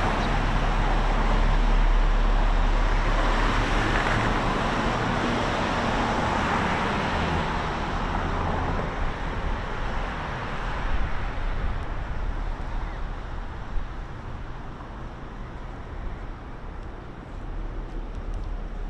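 Road traffic: a steady wash of tyre and engine noise, loudest over the first half and easing off after about eight seconds.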